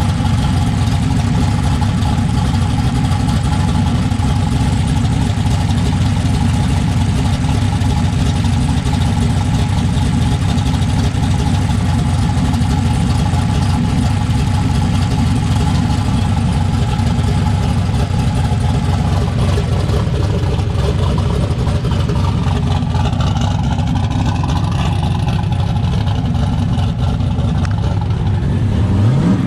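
Turbocharged Fox-body Mustang drag car's engine idling steadily on a freshly swapped fuel injector that was replaced to cure a misfire. Right at the end its pitch starts to rise into a rev.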